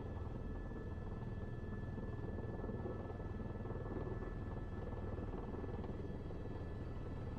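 Airbus H130 T2 helicopter heard from inside the cockpit on final approach: a steady low drone of rotor and turbine with a thin, constant high whine over it.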